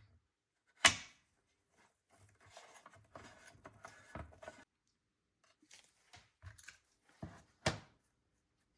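Handling noises: a sharp knock about a second in and another near the end, with a stretch of light clattering and scraping between them.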